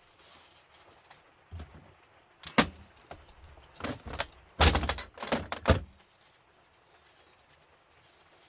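Metal parts of a humidifier unit being pulled apart and handled: a run of sharp clanks and knocks starting about one and a half seconds in, loudest and most bunched in the middle, stopping about six seconds in.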